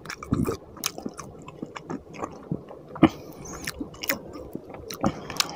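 Close-miked chewing of fish curry and rice, eaten by hand: irregular wet mouth smacks and sharp clicks, one louder smack about three seconds in.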